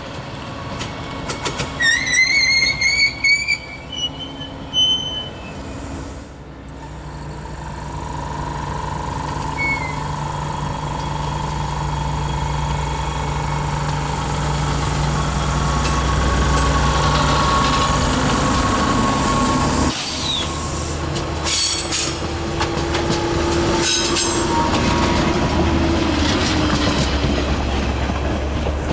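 Stadler GTW 2/6 diesel-electric railcar pulling away from a stop and passing close by. A steady hum builds as it gathers speed, then the wheels roll over the rail joints with a run of clicks and a faint squeal.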